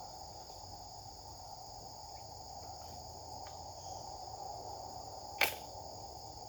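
Steady chorus of crickets and other insects, with one short sharp swish about five and a half seconds in from a swung Japanese sword.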